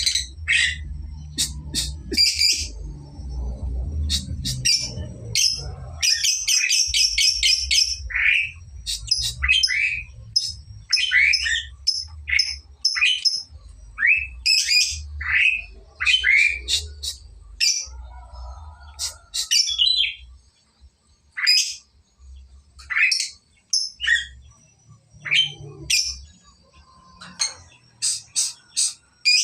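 Lovebird singing its chattering 'ngekek' song: a run of sharp chirps and squeaks, with a fast rattling trill about six to eight seconds in. It is a bird still learning the song, its phrases beginning to get longer.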